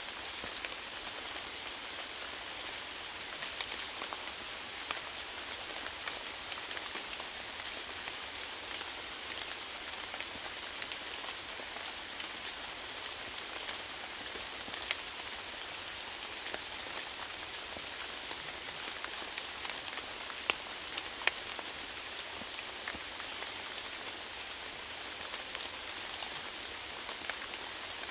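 Steady rain falling on a surface, with a constant hiss and scattered louder individual drop hits.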